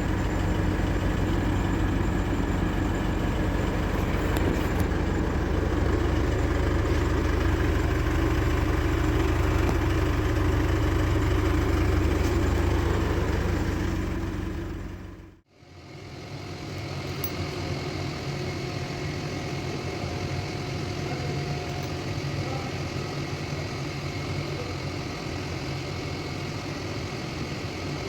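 Isuzu MU-X diesel engine running steadily. About halfway through, the sound cuts off abruptly and goes on as a quieter steady engine hum.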